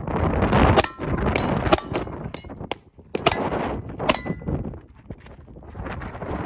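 Gunshots, about four sharp reports spread unevenly over a few seconds, over heavy wind buffeting the microphone.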